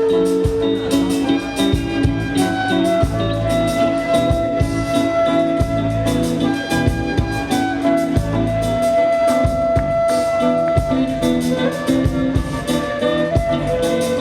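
Live band playing an instrumental passage, with guitar over bass and drums. Long notes are held in the lead line, one held twice for a few seconds each time.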